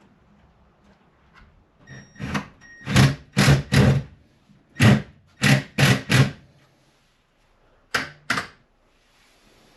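A run of loud, heavy knocks, about two a second, then two more near the end.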